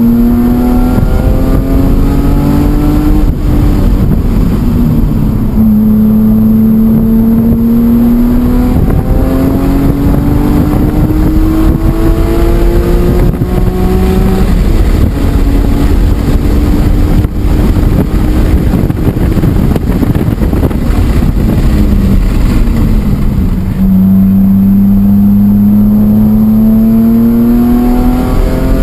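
BMW E46 M3's S54 straight-six engine under hard acceleration on track. The revs climb in each gear and drop sharply at each upshift. In the middle there is a stretch of lower, uneven revs, as under braking and cornering, before the engine pulls up through the revs again near the end.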